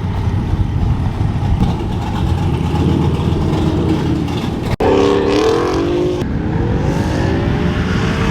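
Truck engine running with a low rumble, then accelerating twice after a sudden break about five seconds in, its pitch rising each time.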